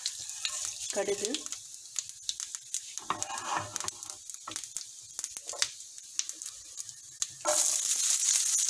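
Fennel seeds frying in hot oil in a nonstick pan, with scattered crackles and pops: the tempering stage. About seven and a half seconds in, chopped onion goes in and the oil breaks into a loud, steady sizzle.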